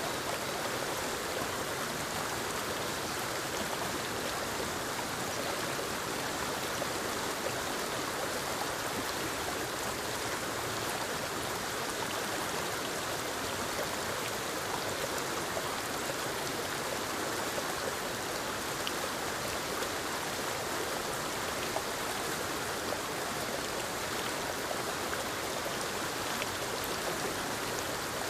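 Forest waterfall and stream, a steady rushing of falling water with no change in level.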